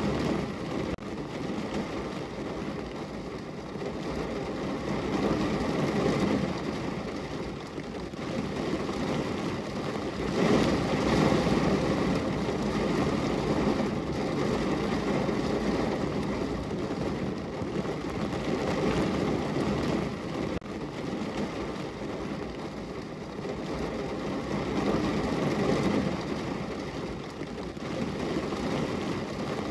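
Rain on a window: a steady wash of noise that swells and eases, loudest about a third of the way in.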